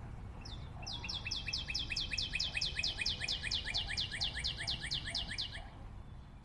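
A songbird calling a long, fast series of short descending notes, about six a second, starting about half a second in and stopping near the end, over a faint low background rumble.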